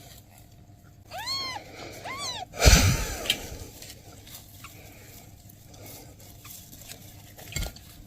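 Newborn kitten mewing twice, short high-pitched mews that rise and fall, followed by a loud thump just before three seconds in and a smaller knock near the end.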